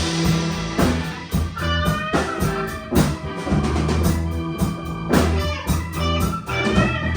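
A live band playing an instrumental passage: a drum kit keeps a steady beat under bass and electric guitar, with sustained keyboard notes.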